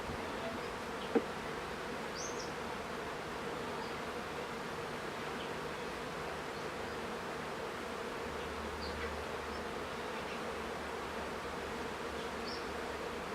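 A colony of honeybees buzzing steadily as a constant hum around the opened hive, with one brief sharp click about a second in.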